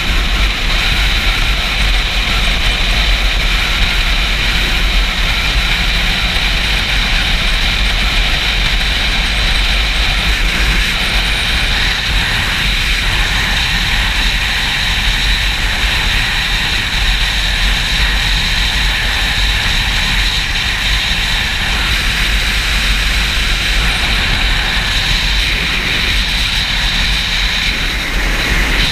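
Steady, loud wind buffeting on the microphone of a camera mounted on a Yamaha YZF-R6 motorcycle riding at speed, with the bike's running noise under it.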